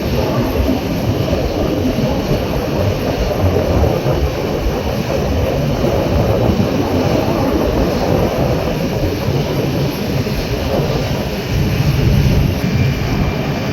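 Steady, loud jet rumble from the Frecce Tricolori's Aermacchi MB-339 display jets flying overhead, with no break or sharp events.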